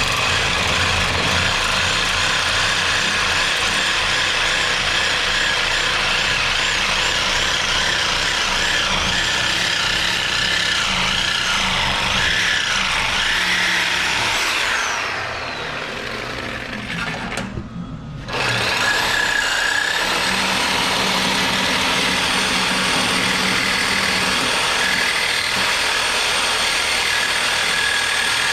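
Power tools running steadily and loudly, with a short dip in level about two-thirds of the way through.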